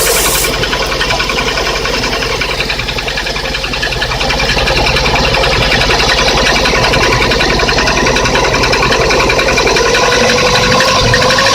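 Lada VAZ-21126 16-valve four-cylinder engine running cold with a rapid, even knock from the pistons. The owner traced it with a stethoscope to the first cylinder knocking at top dead centre as the piston changes direction, and takes it for piston slap from STK pistons that have sagged after only 15,000 km. A thin whine rises slightly in pitch near the end.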